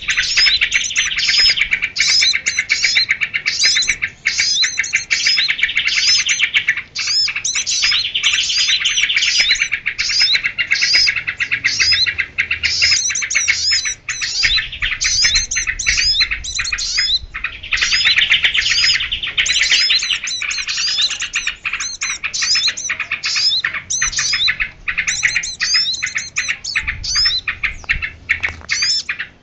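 Bird-lure recording of small birds chirping and twittering: a dense, unbroken stream of rapid high chirps and short rising and falling notes, many calls overlapping.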